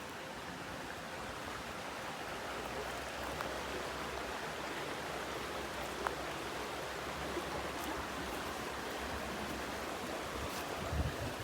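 Steady, even rushing noise of flowing water, with a faint tick about six seconds in.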